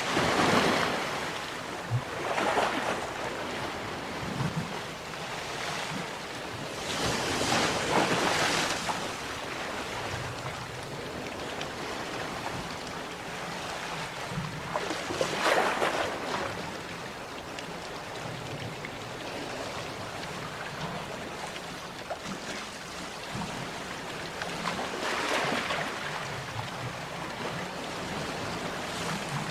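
Sea waves breaking on the shore over a steady wash of surf. Waves surge up and fade back every few seconds at irregular gaps, with the biggest swells about a quarter and about halfway in.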